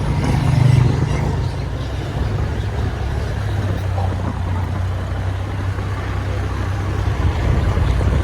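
An engine running steadily with a low hum, swelling briefly about a second in.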